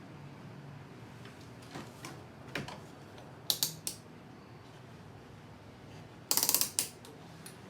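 Several separate sharp mechanical clicks, then a short, rapid ratcheting rattle a little past six seconds in.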